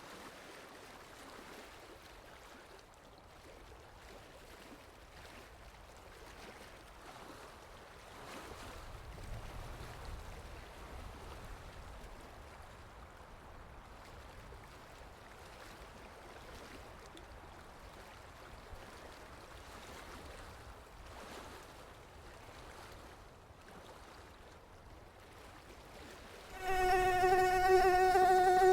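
Faint, steady background hiss for most of the stretch; then, near the end, a mosquito's whine starts suddenly: a loud, steady, high buzzing hum from its beating wings.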